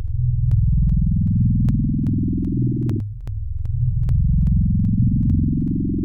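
Synthesized electronic noise music: low bass tones under a rising pitch sweep that climbs for about three seconds, drops back about halfway through and climbs again, with scattered sharp clicks.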